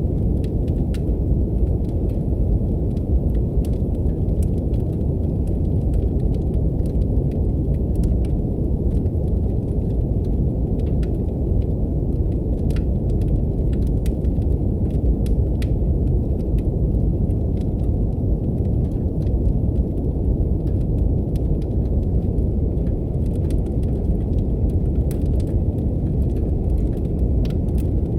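Steady brown noise, a deep, even hiss, mixed with the irregular crackles and pops of a wood fire burning in a fireplace.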